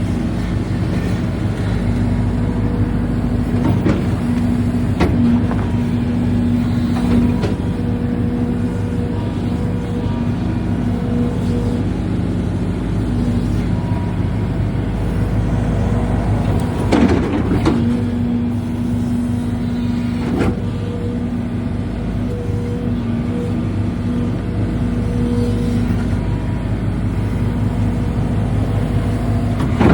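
Hidromek 220 excavator's diesel engine running steadily under work, with a steady hydraulic whine and occasional knocks and clanks, the loudest a little over halfway through.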